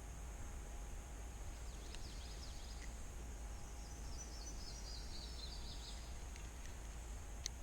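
A small bird singing outdoors: a few faint high chirps, then about 4 seconds in a quick run of short high notes that slowly fall in pitch. Under it is a steady faint hiss, and one sharp click comes near the end.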